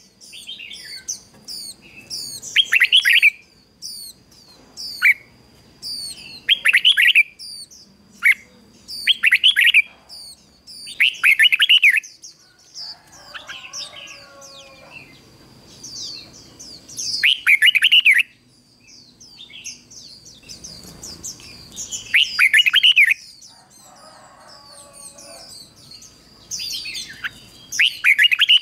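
Red-whiskered bulbul singing short, loud song phrases again and again, about every two seconds. A steady high thin tone runs underneath, and a lower warbling call comes in twice.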